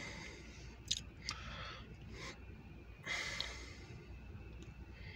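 Faint breathing close to the microphone: soft puffs of breath every second or so, with a couple of small clicks about a second in.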